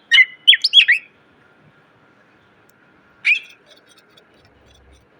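Green leafbird (cucak ijo) singing: a rapid run of sharp whistled notes and quick pitch glides for about a second, then a pause and one more short note a few seconds in.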